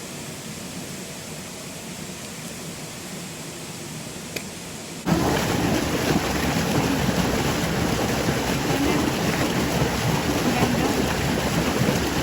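Rushing water of a rocky mountain stream and its waterfalls, a steady hiss, at first fairly soft, then suddenly much louder about five seconds in, with one small click just before.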